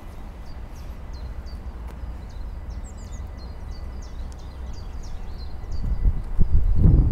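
Small birds chirping in short repeated calls over a steady low outdoor rumble. From about six seconds in, loud irregular low thumps come in and grow louder.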